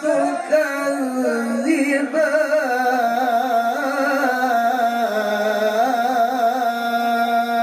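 A male qari reciting the Quran in melodic tajwid style, drawing out one long vowel with ornamented, wavering turns of pitch that settle about five seconds in onto a long held, steady note.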